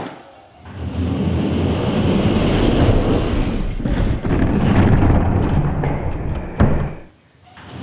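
Diecast toy monster trucks rolling down a plastic race track: a steady rumbling rattle, with a sharp knock about six and a half seconds in, then it drops away.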